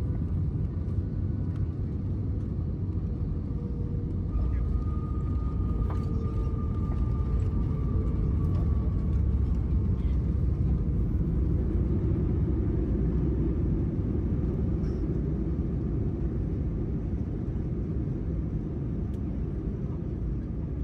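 Airbus A320 cabin noise on final approach and landing: a steady low rumble of engines and airflow, with faint whining engine tones over it.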